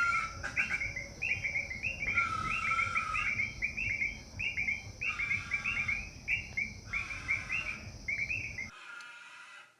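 A fast run of short, repeated chirping animal calls, two or three a second, with some longer, lower notes mixed in, over a steady high insect hum; it all cuts off sharply near the end.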